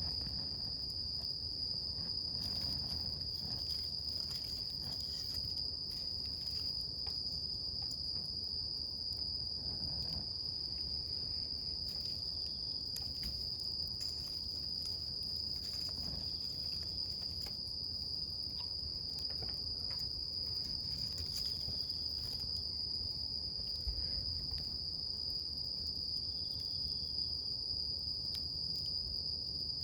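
A steady high-pitched insect trill runs unbroken over a wood campfire, which gives scattered faint crackles and a low rushing of flame.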